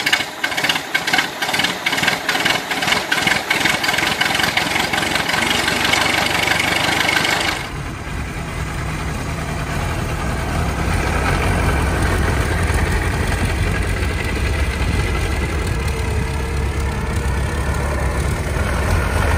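Ford Model T's four-cylinder flathead engine running, first with distinct, evenly spaced firing pulses, then, after an abrupt cut about eight seconds in, a deeper steady running sound.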